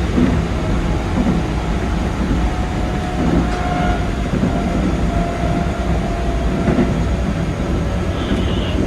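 Keikyu 2100 series electric train running at speed, a steady rumble of wheels on rail and traction equipment heard from inside the driver's cab.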